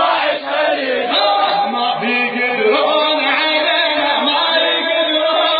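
A nasheed: a male voice chanting an Arabic devotional-martial song.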